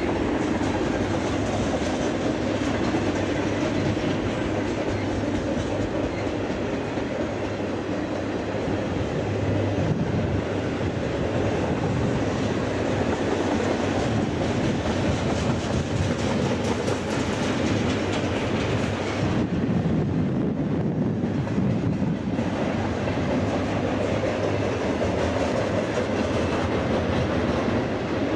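Double-stack intermodal freight train rolling past, its steel wheels running steadily on the rails. About twenty seconds in, the higher part of the noise drops away for a few seconds before returning.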